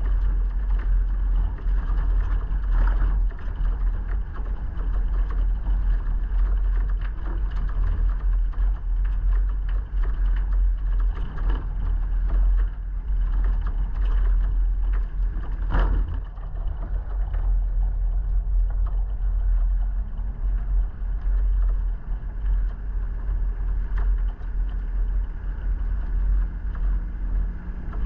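Steady low rumble of a vehicle on the move, with scattered knocks and rattles; the sharpest knock comes about 16 seconds in.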